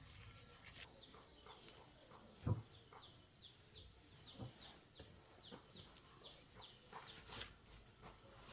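Faint background: a bird repeating a short falling chirp about two to three times a second over a steady high insect drone, with one sharp knock about two and a half seconds in and a few quieter clicks.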